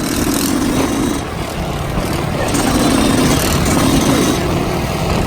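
Dirt bike engine running, its note rising and falling with the throttle.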